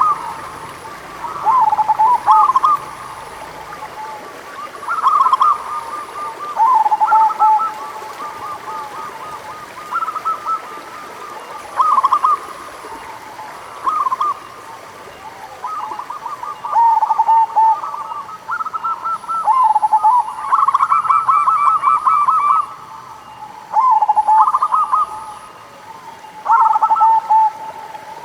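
Zebra dove (perkutut) cooing: short phrases of rapid, quavering coos repeating every couple of seconds.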